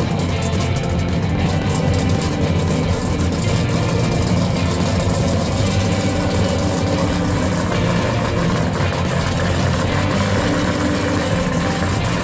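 Engine of a 1970 Plymouth Cuda pro street car, idling steadily with a low, even rumble.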